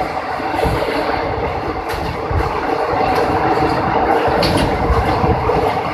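Passenger train running along the line, heard from on board: a steady rumble and rattle of wheels and carriage, with a few faint clicks.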